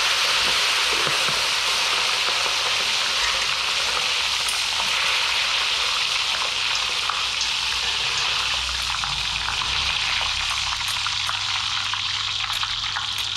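Food deep-frying in hot oil: a steady sizzle that eases off only slightly.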